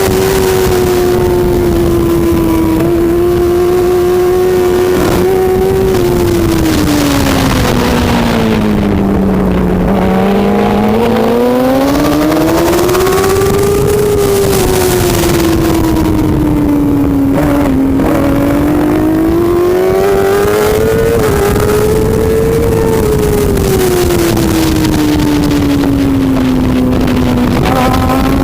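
Superbike engine running hard without a break, its note swelling and falling every few seconds as the revs rise and drop, over a steady rushing noise.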